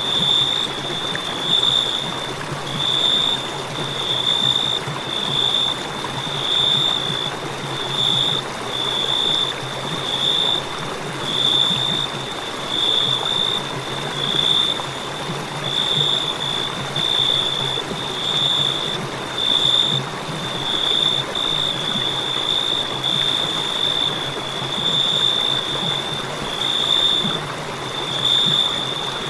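Crickets chirping: a continuous high trill that swells in regular pulses about once a second, over a steady hiss.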